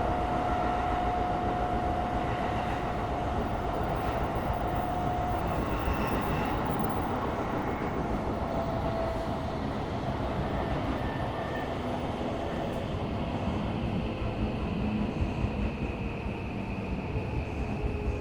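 Running noise inside a Tokyo Metro 17000 series subway car: the steady rumble of wheels on rail with a whine from the traction motors. The whine holds one pitch for the first five seconds or so, then fades. Near the end a lower whine slowly falls in pitch.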